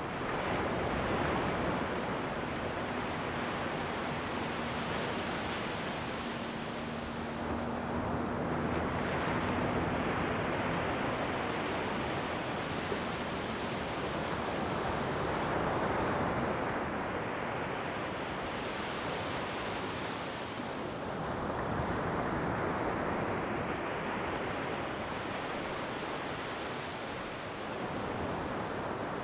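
Ocean surf, waves breaking and washing in, the rushing noise swelling and falling back every few seconds.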